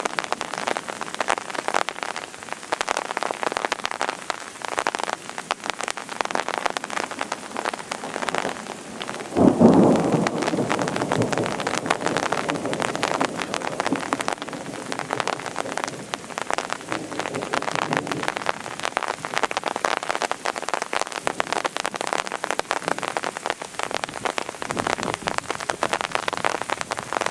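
Heavy rain falling and pattering densely on hard surfaces. A louder low rumble comes in about nine seconds in and lasts a couple of seconds.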